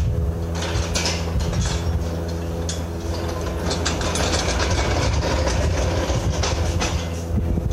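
Rapid metallic clicking and clatter of hand tools, ratchet-like, over an engine running steadily.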